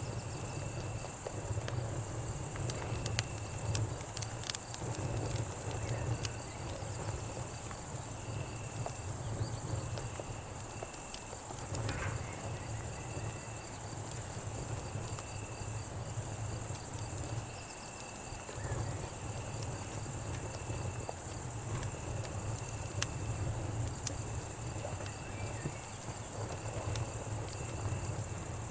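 Night insect chorus of cicadas and crickets: a steady high-pitched buzz, with a repeating chirp about once a second. Underneath, a low rumble and scattered crackles of a campfire.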